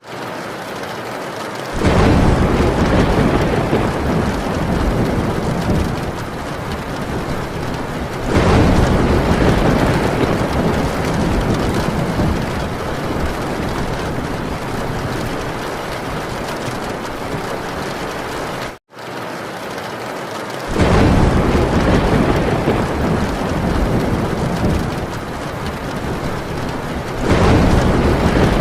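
Heavy rain drumming steadily on a metal tin roof, with thunder rumbling in four long swells. The sound cuts out to silence for a moment twice, at the start and about two-thirds of the way through.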